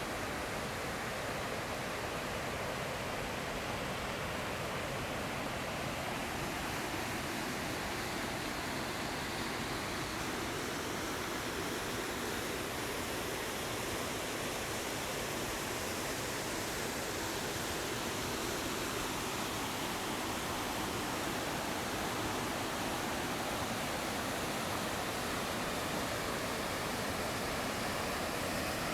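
Steady rush of flowing water, getting slightly louder near the end.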